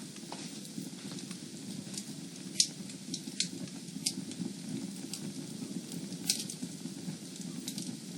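Fireplace fire crackling: a steady low rush of flames with scattered sharp pops and snaps, the loudest about two and a half seconds in and again about six seconds in.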